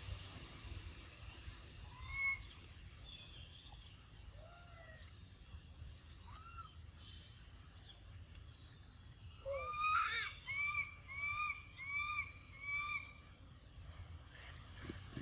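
Wild birds calling: scattered short chirps and whistles over a low background hum, with a run of five loud, repeated arching whistled notes about ten seconds in.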